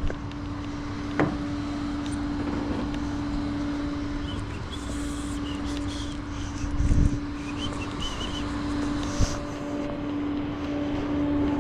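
Tow truck driving with a vehicle in tow, heard from the cab: a steady engine hum over road noise. Sharp knocks come about a second in and again near the end, with a low thud about seven seconds in.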